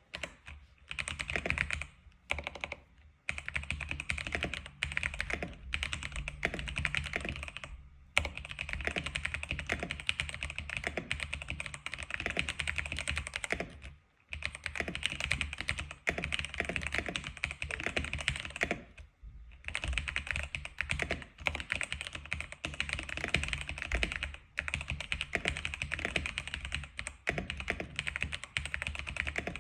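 Fast, continuous typing on an X87 keyboard, a rapid patter of keystrokes in long runs broken by short pauses every few seconds.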